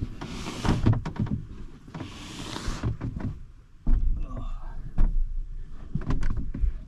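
New mattress in its protective plastic wrap being pushed into a truck camper. There are bursts of rustling and sliding plastic, then several dull thumps and knocks from about four seconds in as it goes in.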